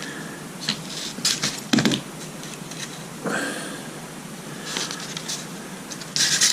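Scattered small clicks and taps of metal parts and tools being handled while the distributor's contact points and condenser are fitted, about half a dozen separate clicks.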